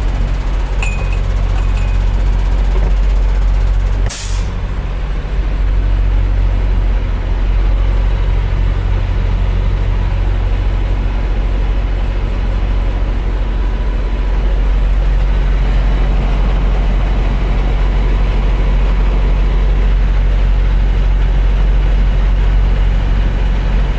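Semi truck's diesel engine running steadily, with one short, sharp hiss of air brakes about four seconds in.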